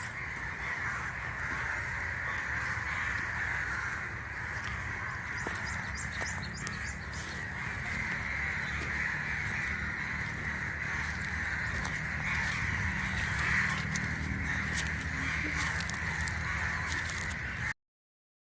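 Outdoor ambience with a continuous chorus of calling birds over a low rumble; the sound cuts off suddenly near the end.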